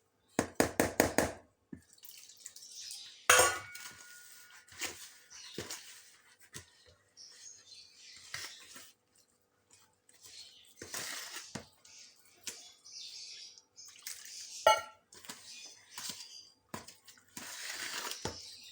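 Wet plaster of Paris mix being stirred in a container: scraping and squelching with a quick run of taps at the start and a couple of louder knocks against the container. The mix is thin and being worked smooth so that no lumps form.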